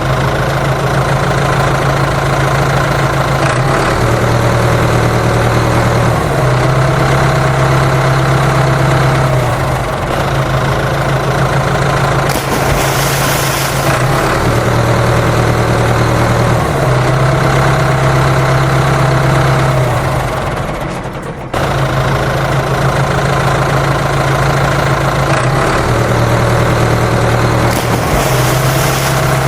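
A truck engine runs steadily at a low idle-like drone, its pattern repeating every few seconds. A brief hiss comes about 13 seconds in and again near the end.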